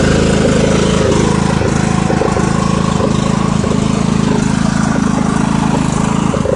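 Small tractor engine running steadily at raised throttle.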